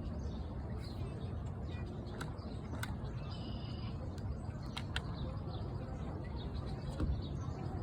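Outdoor ambience: a steady low rumble with scattered short, high chirps of birds, one clearer call about three and a half seconds in.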